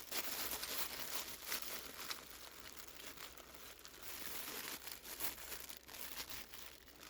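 Plastic packaging crinkling and rustling in hands, with scattered small clicks.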